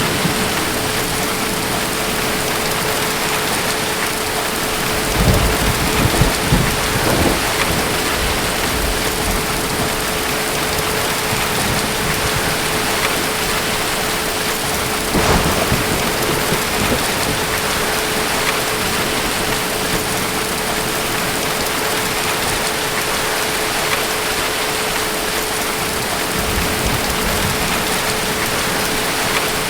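Steady heavy rain with distant thunder, low rumbles swelling about five seconds in and again about halfway through. A faint steady hum sits under the rain.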